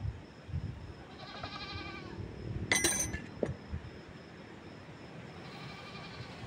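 An animal bleating twice, each call a wavering, quavering cry of about a second, with a sharp knock between them.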